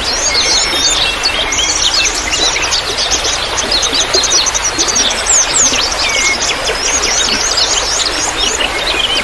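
Many small birds chirping and twittering at once, quick overlapping high chirps and short sweeping notes, over a steady trickle of running water.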